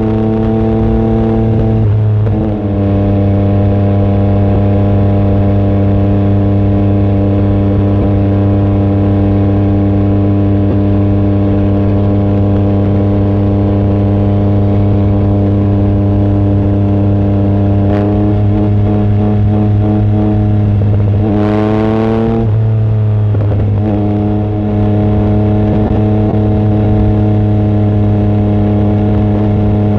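Yamaha MT-09 SP's three-cylinder engine through an aftermarket exhaust with the baffle removed, running loud at steady revs while riding. The pitch steps down about two seconds in, and around twenty seconds in the revs climb and drop again before settling.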